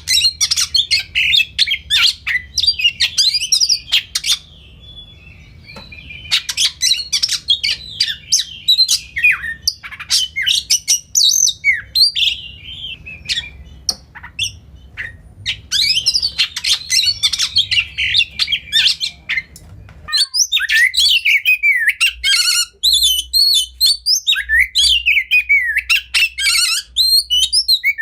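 Oriental magpie-robin (kacer) singing a loud, fast, varied song of rich whistled phrases, trills and harsh notes, with short pauses between runs. About two-thirds of the way through, the low background hum changes abruptly where one recording is spliced onto another.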